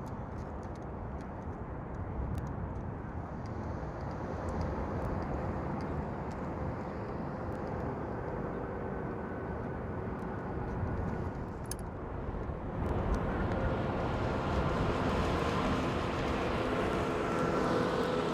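Ford electric pickup truck driving, heard as a steady rumble of tyres and air that grows louder about 13 seconds in as it comes nearer, with a faint steady whine over it.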